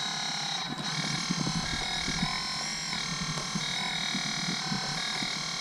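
Electric drive motors and gearboxes of an RC4WD remote-control bulldozer whining as it is driven, running on a Sabertooth dual motor controller. Several high steady tones shift in pitch a few times as the throttle changes, over an irregular low mechanical rattle.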